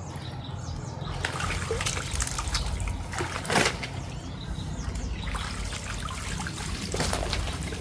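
Water trickling and splashing, with scattered small knocks and clicks; one louder knock about three and a half seconds in.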